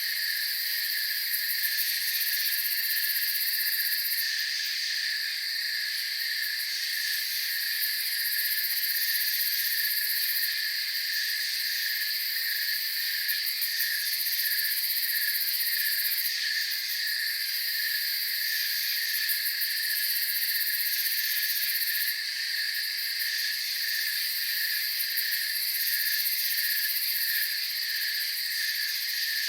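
Night insect chorus of crickets: a steady high trill with a lower chirping that pulses evenly over it, and a very high buzzing layer that comes and goes every few seconds.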